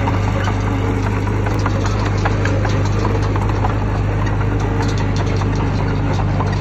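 Heavy diesel earthmoving machine engine running steadily with a deep hum, with scattered light clicks and rattles over it.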